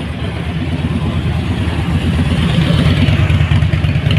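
A car's engine running at low revs as the car sets off, a deep pulsing rumble that grows steadily louder.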